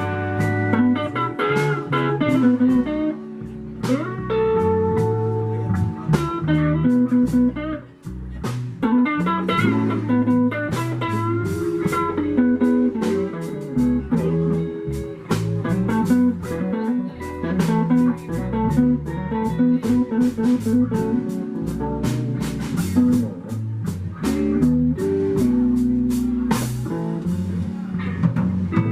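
Blues band playing an instrumental break: electric guitar taking a solo over bass and drums.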